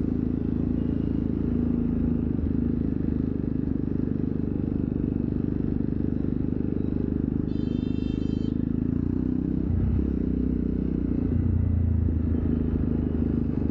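Jawa Perak's single-cylinder engine running through its exhaust as the bobber rolls slowly, its note shifting about ten seconds in. A brief high-pitched tone sounds near the middle.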